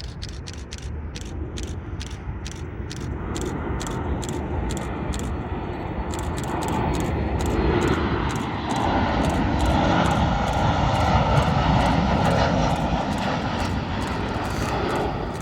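Boeing 737 MAX's CFM LEAP-1B turbofan engines on final approach, a roar that builds to its loudest around ten seconds in as the jet passes, then eases off. A rapid, even series of camera shutter clicks runs over it.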